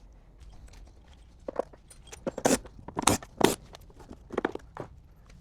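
Irregular clicks and clinks of hand tools and metal parts while the Torx bolts holding the ECU cover are undone, the sharpest three around the middle.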